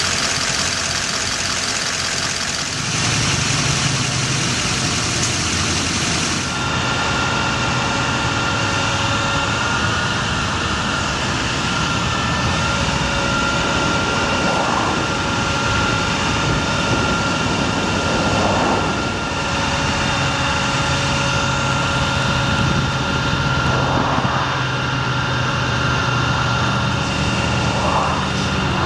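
A 2008 GMC C5500 bucket truck's engine idling steadily, with a thin steady whine over it. The sound shifts a little about 3 seconds and again about 6.5 seconds in.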